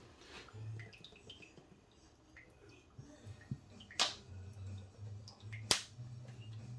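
Kitchen handling sounds: two sharp clicks about a second and a half apart, among small scattered ticks and a faint low hum.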